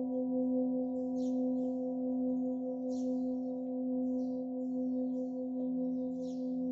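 Tibetan singing bowl ringing on with a steady low tone and a wavering overtone above it, while small birds chirp in short high calls four or five times.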